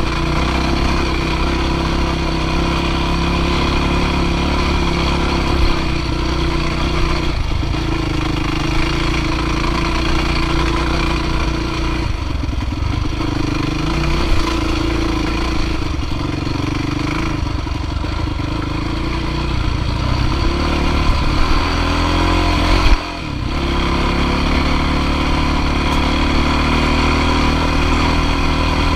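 Dirt bike engine running under throttle on a climb, its pitch rising and falling with the throttle, with a brief cut in the engine note about three-quarters of the way through.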